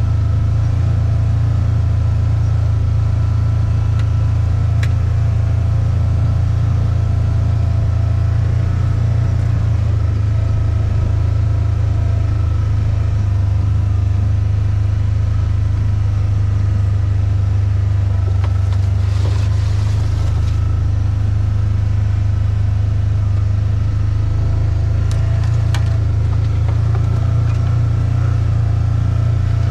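Steady low drone of a running motor vehicle, even and unchanging, with a brief rustle or scrape about two-thirds of the way through.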